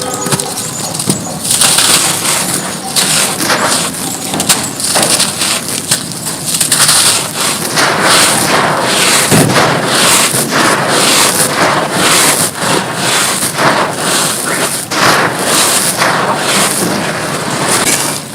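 Gritty mud chunks being crushed and crumbled, a continuous crunching and crackling that swells and eases every second or so.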